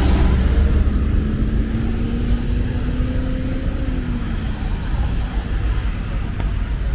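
Road traffic on a wet city street. A vehicle passes close at the start with a brief rush of tyre hiss and rumble, then an engine hum holds one slowly rising tone for a few seconds and fades, over a steady wash of street noise.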